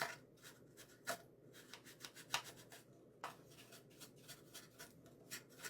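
Faint, irregular scratchy strokes of a nearly dry paint brush working stain into the inside of a small wooden box, with a few sharper ticks.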